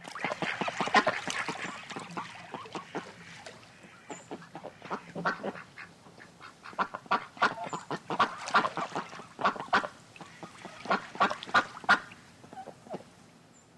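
A flock of waterfowl calling, with many short calls overlapping throughout.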